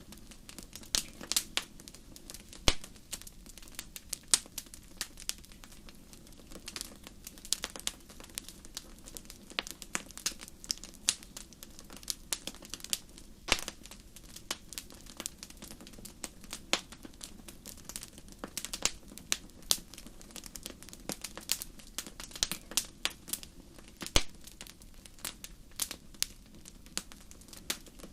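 Wood fire in a fireplace crackling: irregular sharp pops and snaps several times a second, a few louder than the rest, over a low steady hiss of burning.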